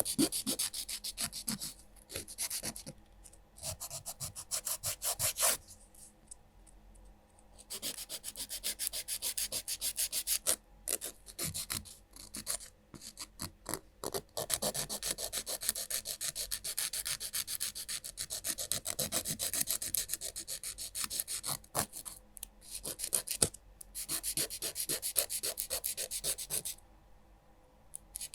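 Nail file rasping across fingernails in rapid back-and-forth strokes, in long runs with a few short pauses.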